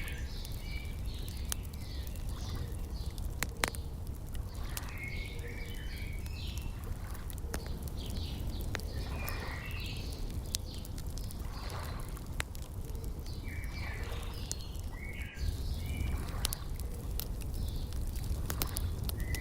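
Birds chirping in short repeated phrases over the scattered pops and snaps of a crackling wood fire, with a steady low rumble beneath.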